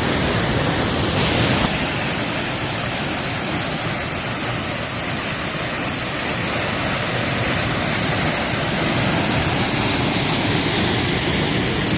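Waterfall close by: a loud, steady rush of falling water, powerful, with no let-up.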